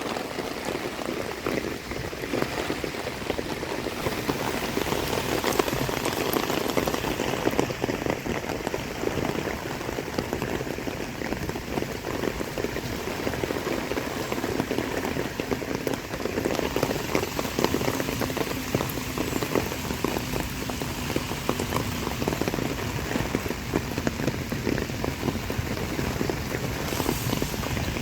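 Heavy typhoon rain pouring down: a dense, steady patter of drops hitting surfaces all around.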